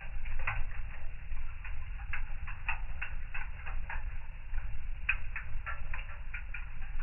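Wood fire burning in a fireplace, crackling with irregular sharp snaps and pops over a steady low rumble.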